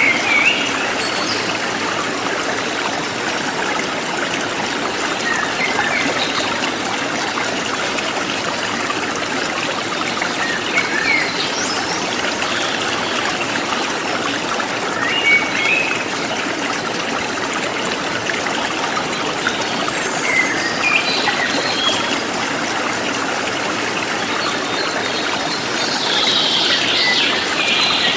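Forest stream flowing and trickling steadily, with short bird chirps breaking in every few seconds and a cluster of chirps near the end.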